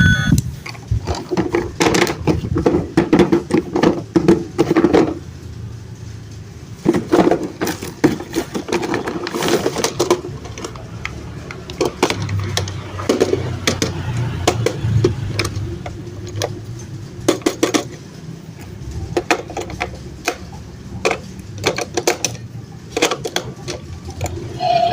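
Plastic toys and their packaging being handled: an irregular run of clicks, knocks and rattles, with a low hum here and there.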